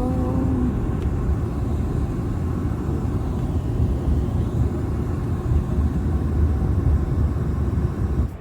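Steady low rumble of a train running along the track, heard from inside the passenger car.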